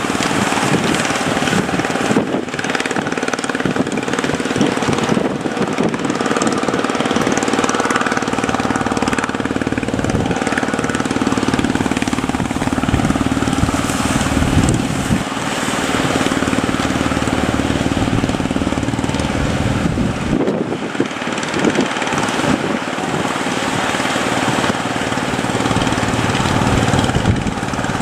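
A boat engine running steadily at a constant pitch over a continuous rushing noise.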